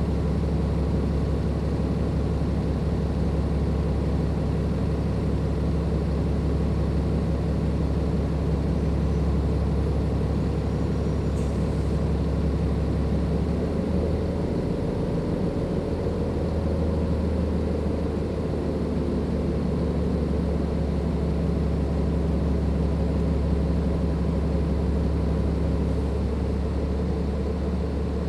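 Cummins ISLe340b diesel engine of a Dennis Enviro 500 double-decker bus running steadily, a deep continuous hum whose note shifts about halfway through.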